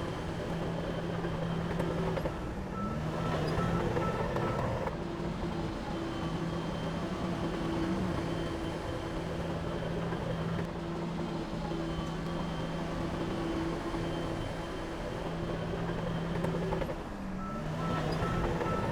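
Heavy diesel machinery engine running steadily. It swells louder twice, a few seconds in and near the end, and each time a reversing alarm beeps.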